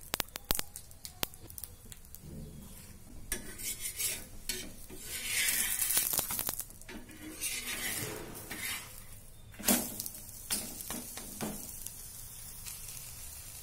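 Egg paratha frying in oil on a griddle, sizzling, with a steel spoon clicking against the pan as oil goes on and a steel spatula scraping under the paratha to flip it. The sizzle swells about five seconds in, and there is a sharp knock about ten seconds in.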